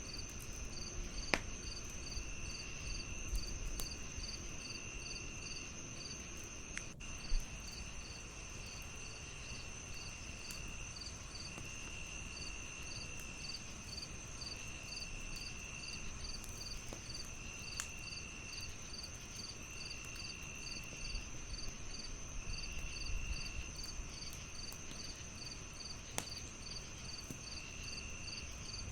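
Several crickets chirping together: a steady high trill, a regular pulsed chirp about three times a second, and lower trills of about a second that come and go every couple of seconds. A few sharp pops from a crackling fire are scattered through it.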